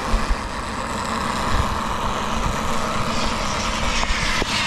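Radio-controlled model airplane flying, a steady engine noise that brightens and grows in its upper range during the last second or two.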